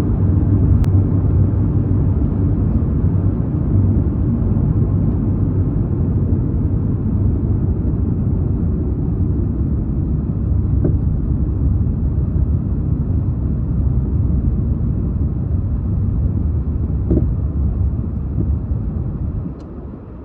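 Car driving, heard from inside the cabin: a steady low rumble of road and engine noise that drops sharply in loudness near the end.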